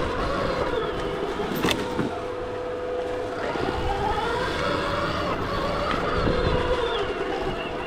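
Stark Varg EX electric dirt bike's motor whining, its pitch rising and falling with the throttle, over a low rumble of wind and terrain, with a sharp knock about two seconds in.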